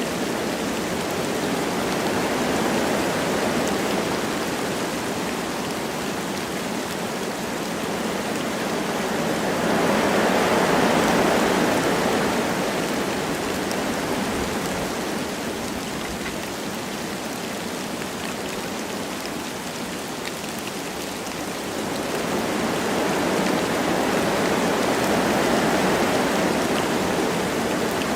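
Wind blowing through forest trees with light rain falling, a steady rushing hiss. The wind swells in a gust about a third of the way in and again near the end, then eases.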